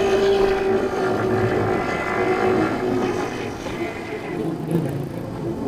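A 50cc scooter engine running while riding in traffic, with road and wind noise. Its steady hum fades about halfway through and comes back near the end.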